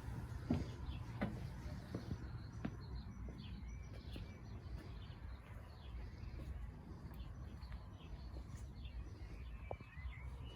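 Small birds chirping faintly and repeatedly, over a low steady background rumble, with a few scattered soft clicks.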